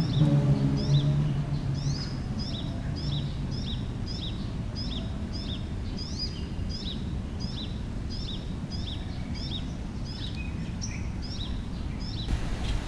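A bird calling over and over, about two short, high, falling chirps a second, stopping shortly before the end, over a steady low traffic rumble. A vehicle engine hum fades away in the first two seconds.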